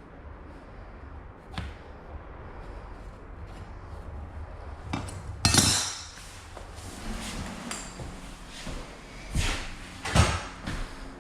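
A few sharp knocks at uneven intervals, the loudest about five and a half seconds in and two more near the end: rigid-core vinyl flooring planks being tapped into place.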